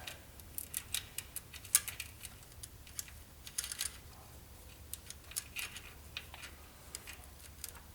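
Timing chain and engine parts being handled and fitted by hand: scattered light metallic clicks and clinks, the sharpest about two seconds in.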